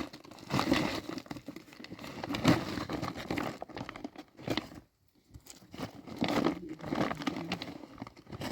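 Plastic sheeting being handled, rustling and crinkling in irregular bursts, with a brief pause about five seconds in.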